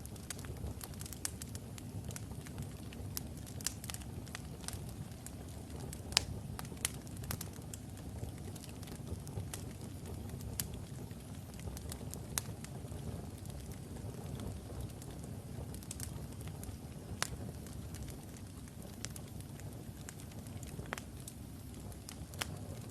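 Wood fire burning in a fireplace: a steady low rumble of flames with irregular sharp crackles and pops from the logs, the loudest pop about six seconds in.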